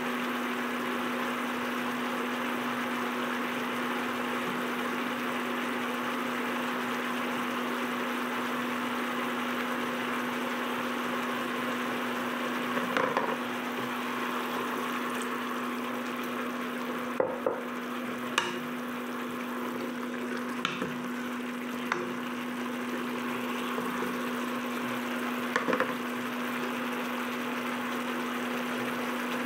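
Chicken adobo sizzling and bubbling in a nonstick wok, a steady hiss over a steady low hum. A few sharp clicks come in the second half.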